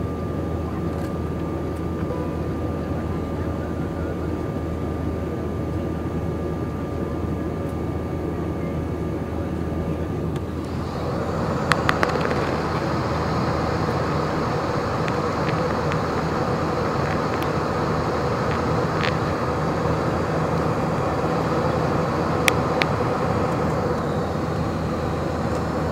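Airbus A319-100 cabin noise during the climb: a steady drone of jet engines and airflow with a faint steady whine. About eleven seconds in the noise turns brighter and a little louder. A few light clicks follow.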